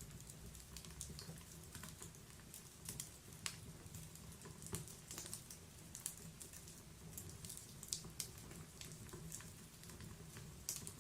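Wood logs burning in a fireplace, crackling with irregular sharp pops and snaps over a soft low rumble of the flames.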